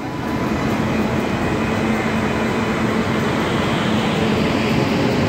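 Train running on the rails: a steady noise with a faint hum, getting a little louder about a second in.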